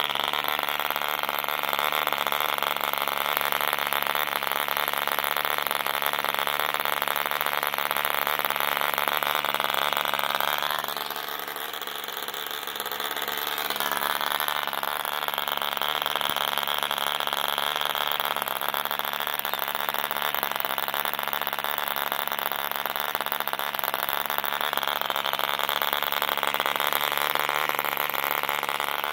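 Movo D2 model aircraft diesel engine running steadily at high speed, turning a 10x5 propeller. About eleven seconds in it slows and quietens for a few seconds, then picks back up.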